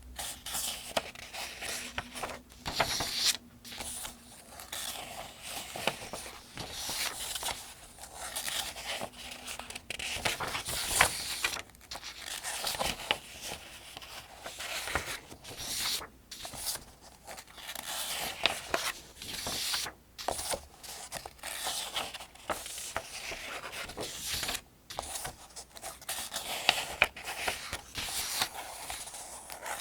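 Pages of the Farmers' Almanac being turned one after another, the paper rustling and crinkling in short bursts with brief pauses between turns.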